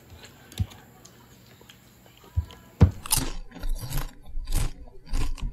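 Close-up chewing and crunching of food: after a quiet start with a couple of light taps, a run of irregular crunches begins about halfway in.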